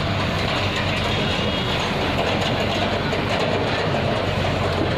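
Heavy diesel machinery running steadily, with a low engine hum and a dense, continuous rattle.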